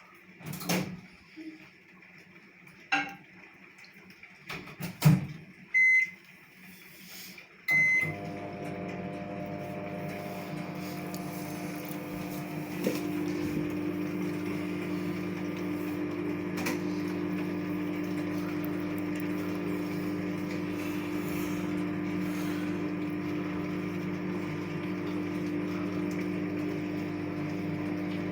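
A few clicks and knocks, then two short high beeps; about eight seconds in, a steady machine hum starts and keeps running.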